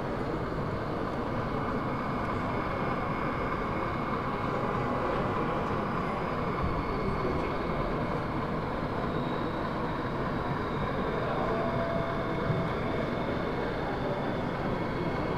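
Model trains running on an exhibition layout, a steady hum with a few faint held whining tones over the even background noise of the hall.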